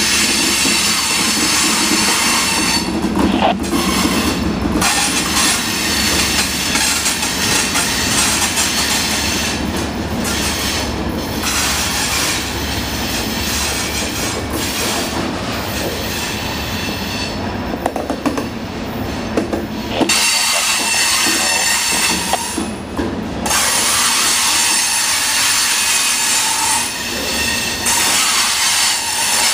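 CSX freight train cars rolling past at close range: steady loud wheel-on-rail noise with a continuous high-pitched squeal over it.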